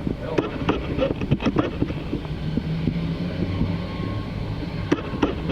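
Low, steady rumble of a jet airliner's engines, with a faint hum coming and going in the middle. Wind buffets the microphone with many short knocks and crackles.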